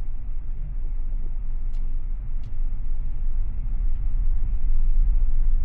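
Low, steady rumble of a car being driven, road and engine noise heard inside the cabin, growing a little louder near the end.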